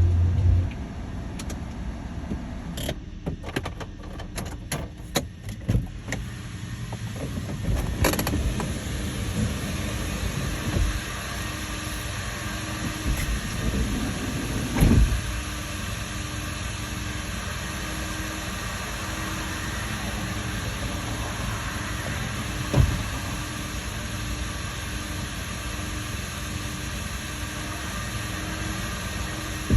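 Car engine running at idle, with a run of sharp clicks a few seconds in and two single thumps later on.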